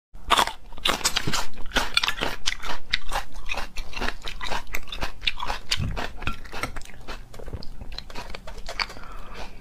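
Close-miked eating: crisp crunching bites and chewing of a raw green chili pepper, with wet mouth sounds from eating braised beef bone marrow. The crackly crunches come thick and fast at first and thin out toward the end.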